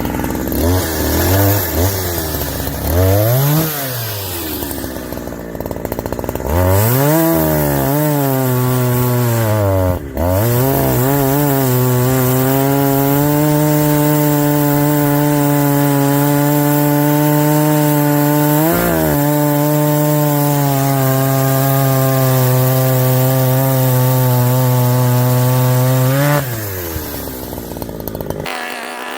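Chainsaw revving up a couple of times, then running at steady full throttle for about fifteen seconds as it cuts through a log, with a brief dip in revs partway through. It drops back to idle near the end.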